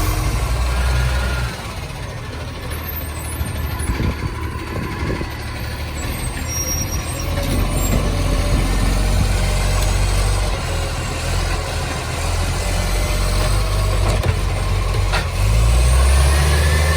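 Garbage truck's diesel engine running with the roar of a massive exhaust leak. It eases off briefly early on and rises louder near the end, with a sharp click shortly before the rise.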